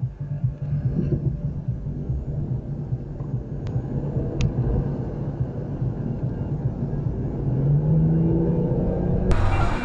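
Steady low rumble of a car driving, with two faint clicks about three and a half and four and a half seconds in. Near the end the sound cuts abruptly to a louder, brighter mix.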